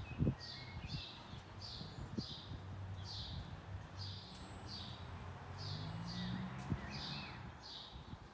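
A bird repeating a short, high, slightly falling chirp about every two-thirds of a second, over a low steady hum, with a couple of soft knocks right at the start.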